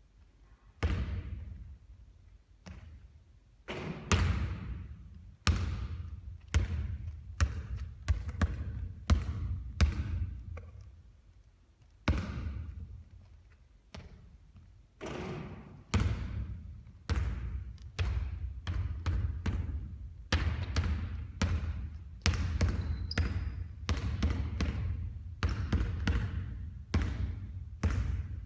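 A basketball bouncing on a hard court again and again, each bounce a sharp thud with a short echoing ring; the bounces come more often in the second half.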